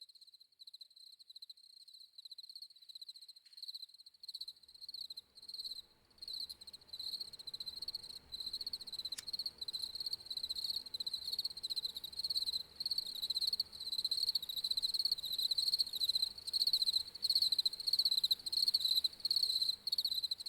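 Crickets chirping in quick repeated pulses, a high steady pitch that grows gradually louder.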